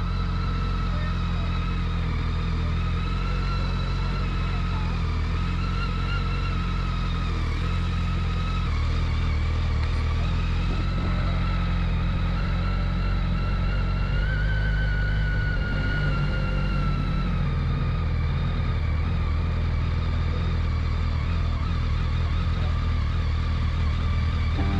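Motorcycle engine running steadily while being ridden at an even pace.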